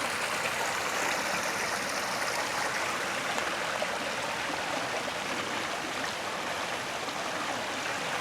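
Small woodland stream cascading over a little waterfall: a steady rush of splashing water.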